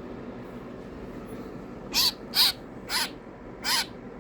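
Baby bird giving four short, harsh calls in the second half, each rising and then falling in pitch. The owner takes them as the bird being upset rather than its happy tweets.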